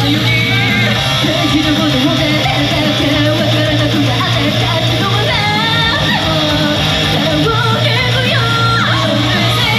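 Loud live rock-style idol-group music: distorted guitar and a steady bass under sung vocal lines, with some shouting.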